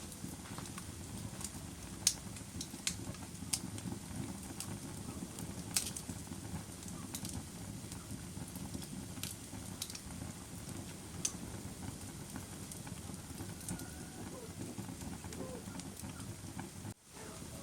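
Wood fire crackling: a steady low rumble of burning with sharp, irregular pops and snaps, the loudest about two seconds and six seconds in. The sound drops out for an instant near the end.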